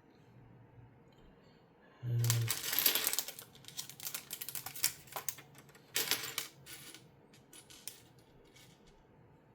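Loose plastic LEGO pieces clattering and rattling as they are stirred or poured, in a burst of about a second and a half about two seconds in and a shorter one about six seconds in, with scattered clicks of single pieces in between and after.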